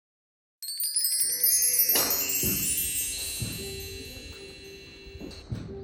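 A shimmering wind-chime-like chime sounds about half a second in, many bright high tones together, fading slowly over the next few seconds. Under it are a few soft knocks and a low steady hum.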